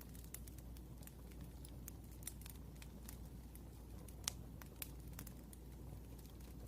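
Wood fire crackling: irregular sharp pops and snaps over a low steady rumble, with the loudest pop about two-thirds of the way in.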